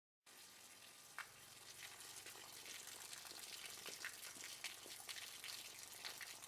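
Faint splashing and pattering of falling water, a steady hiss dotted with small drop ticks, starting just after a moment of dead silence.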